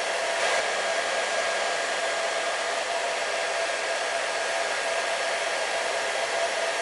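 Handheld hot-air blower running steadily at constant speed, a rush of air with a steady whine, heating self-adhesive vinyl wrap on kitchen cabinets so that it bonds at the edges.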